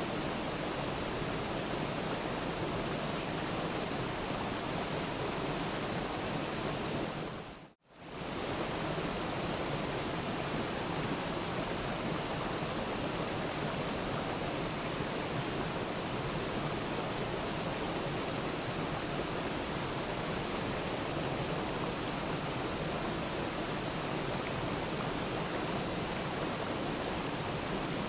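Waterfall, a steady, even rush of falling water. About eight seconds in, it fades out to near silence for a moment and straight back in.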